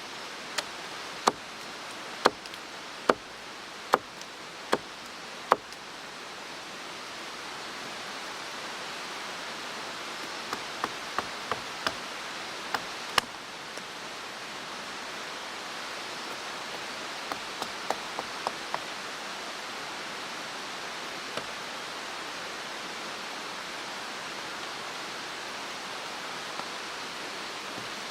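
Steady rush of a mountain stream, with sharp knocks over it: a regular run of about one a second for the first few seconds, then scattered clusters of lighter knocks.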